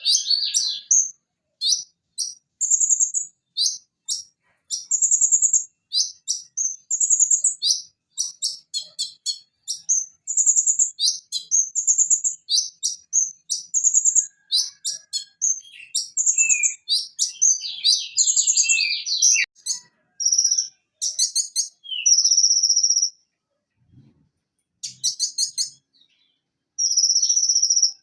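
Purple-throated sunbird (konin, Leptocoma sperata) singing: rapid high-pitched chirps, trills and short whistled notes in quick phrases with brief gaps, and a pause of about three seconds near the end.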